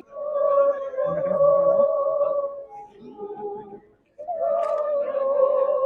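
A worship song being sung in long held notes with vibrato: one phrase, a short break in the middle, then a second phrase.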